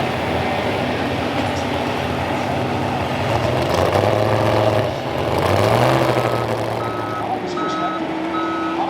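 Heavy vehicle engines running and revving at a pulling track, twice swelling in pitch and loudness around the middle. About six seconds in, a reversing beeper starts sounding in steady, evenly spaced beeps.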